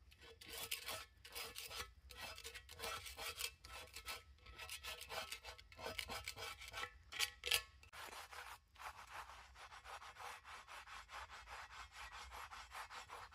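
Scraping baked-on chicken residue off a grill pan, in repeated short rasping strokes that come quicker in the second half.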